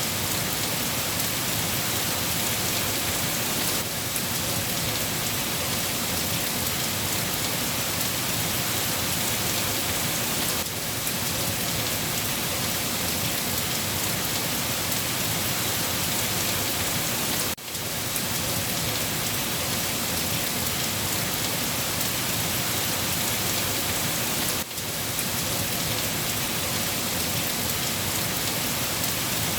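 Steady rain falling, a dense even hiss, with two brief dips in level about two-thirds of the way through and again near the end.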